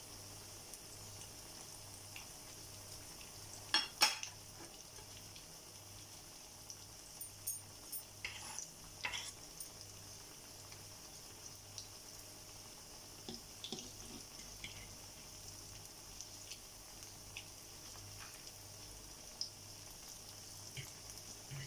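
Battered banana fritters frying in a pan of hot oil: a steady sizzle, with a few sharp clicks of utensils against the pan, the loudest a pair about four seconds in.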